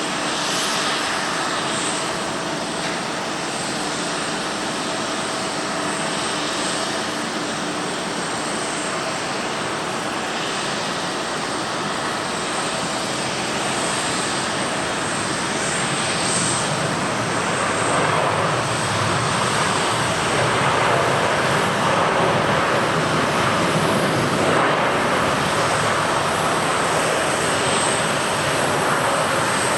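Airbus A350-900's Rolls-Royce Trent XWB jet engines on a landing, a steady jet noise with a faint hum at first that swells louder and fuller about two-thirds of the way through.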